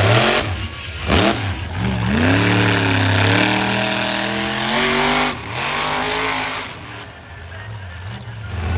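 Monster truck engine revving hard. It climbs, holds at high revs for a few seconds, drops sharply and picks up again, then eases off before climbing once more at the end.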